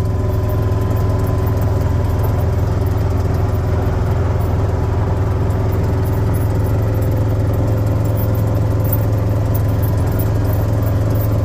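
Vehicle engine running at a steady, even drone while driving, heard from inside the cab.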